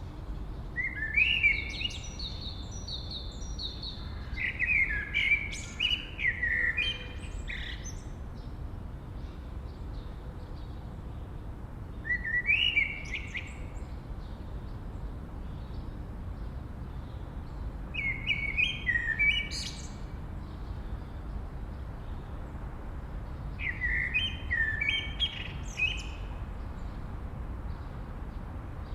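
A songbird singing short phrases of quick chirping notes, repeated about every five to six seconds, over a steady low background hiss.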